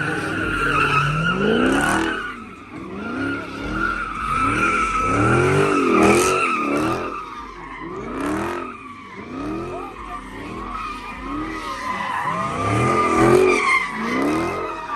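Car doing donuts: its tyres squeal steadily while the engine note rises and falls over and over, every second or two.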